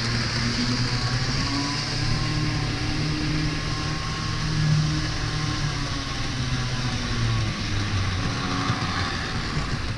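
HO scale model train locomotive running steadily around the track, its motor and gears giving a loud, even hum and whirr. It is very noisy, which is normal for this locomotive: it was noisy even when new.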